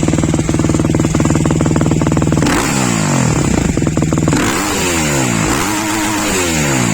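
Husqvarna TE310's single-cylinder four-stroke engine, on its original exhaust, idling steadily. From about two and a half seconds in it is revved in a series of quick throttle blips, each rising and falling, roughly one a second.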